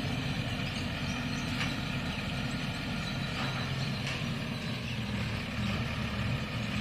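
Truck engine running steadily as the truck pulls away after dumping its load.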